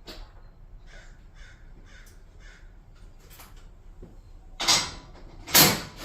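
A crow cawing, about four short caws half a second apart. Near the end come two much louder harsh noises about a second apart.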